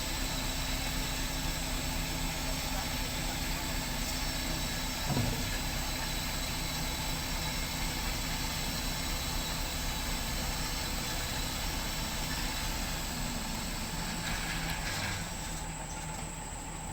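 Heavy diesel engine of a truck or paver idling steadily, with a brief rising tone about five seconds in. It gets a little quieter near the end.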